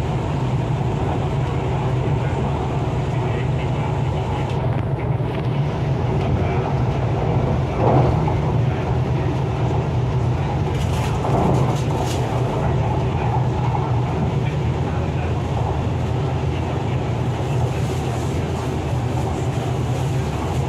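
Hyundai Rotem R-Train electric multiple unit running along the line, a steady low rumble of the moving train. There are two brief louder knocks, about eight seconds in and again a few seconds later.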